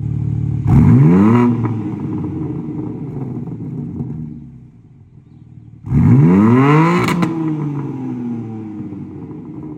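BMW G80 M3 Competition's twin-turbo inline-six revved twice while standing, each rev climbing quickly and then falling slowly back to idle, with a single sharp crack near the top of the second rev.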